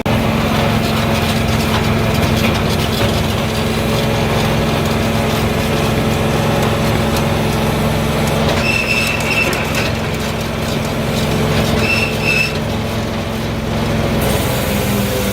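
Multitek 1620SS firewood processor running, its 44-horsepower diesel engine droning steadily. Two brief high-pitched tones sound about nine and twelve seconds in.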